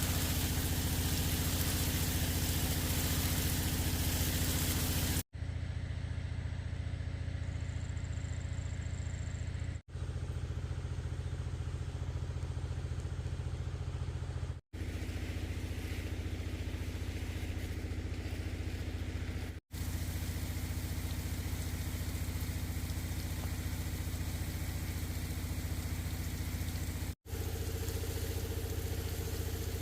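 A small engine running steadily at an even speed, broken by several abrupt cuts of a split second each.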